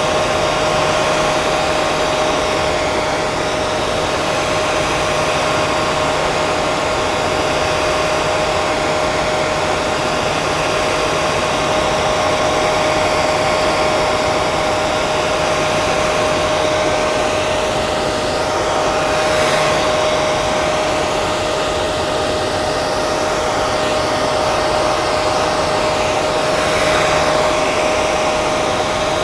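Hair dryer running continuously: a steady blowing rush with a constant high motor whine. The rush shifts slightly and slowly a couple of times, about two-thirds of the way through and near the end.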